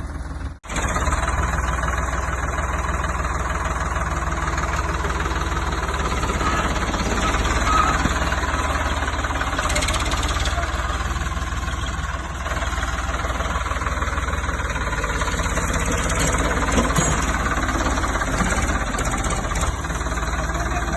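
Farmtrac tractor's diesel engine running steadily with a knocking clatter, after a brief dropout just after the start.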